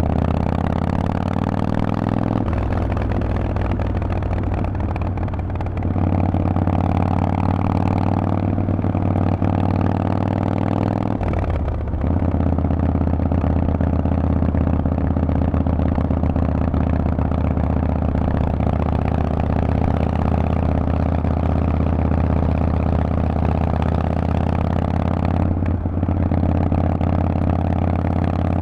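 Harley-Davidson Forty-Eight's air-cooled V-twin running loud through a Vance & Hines exhaust under way. The note holds steady with short dips about 12 and 26 seconds in, like gear changes.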